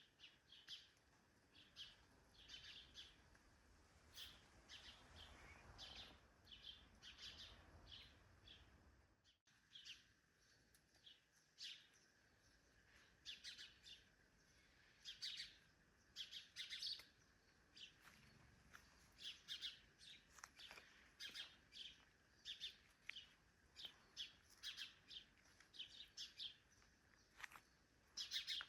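Birds chirping: many short, faint chirps repeating in quick runs.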